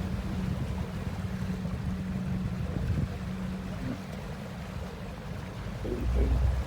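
Motorboat under way on a lake: the boat's motor hums steadily over rushing water and wind buffeting the microphone. The hum drops away about four seconds in, and a low gust of wind hits near the end.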